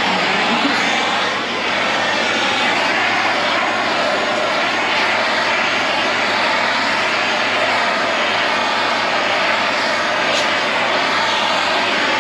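Blowtorch flame burning with a loud, steady hiss as it heats a sun-faded plastic cowl to bring back its colour.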